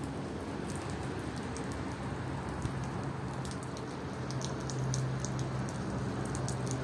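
Rain falling steadily, with individual drops ticking sharply over the hiss. A low steady hum runs underneath.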